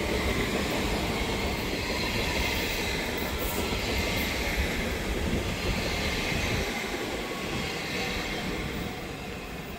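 A train rumbling on the rails with a high wheel squeal over it, easing slightly toward the end.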